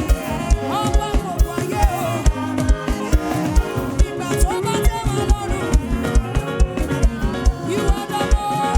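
Live band playing upbeat African gospel praise music, driven by a steady kick-drum beat under sustained keyboard and guitar lines.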